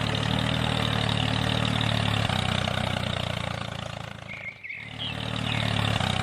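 Mini tractor's small engine running steadily with an even pulsing note; it fades away about four seconds in, nearly stops for a moment, and picks up again about a second later.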